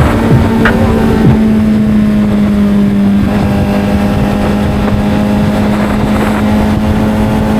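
Kawasaki Z900's inline-four engine running at a steady cruising speed, one constant engine note under wind rush.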